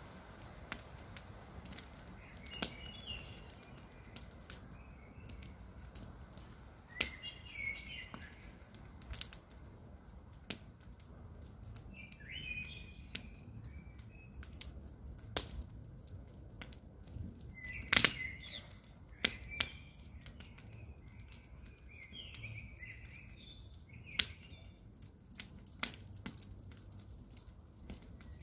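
Campfire crackling with scattered sharp pops of burning wood, the loudest about 18 seconds in, while birds chirp in short phrases every few seconds.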